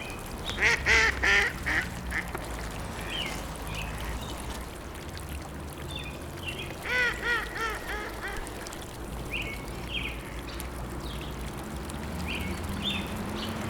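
Ducks quacking in two bouts: a cluster of calls about half a second in, and a run of about five quacks around seven seconds in, with short, higher calls between them.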